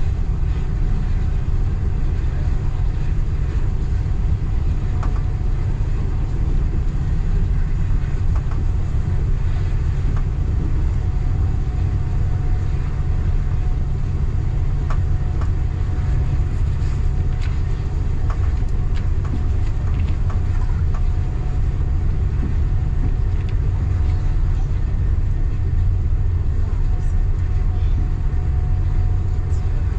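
Local passenger train running with a steady, heavy low rumble. A faint steady tone sits above it, with scattered light clicks and knocks from the wheels and carriage.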